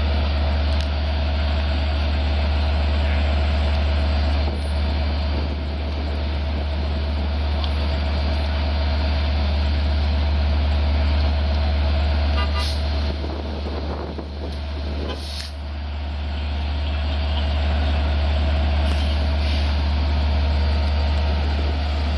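DM30AC diesel locomotives running at idle while the train stands, a steady low drone with a faint steady tone above it. A couple of short hisses come about two-thirds of the way through.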